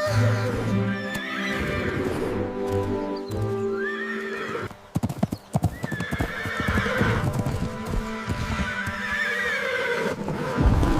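A horse whinnying several times over background music, with a quick run of hoofbeats about five seconds in.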